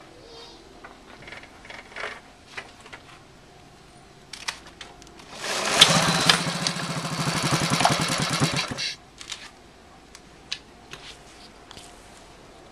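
Little Honda P25's small single-cylinder four-stroke engine firing and running in rapid even beats for about three and a half seconds, then cutting off suddenly. Light scattered clicks before and after.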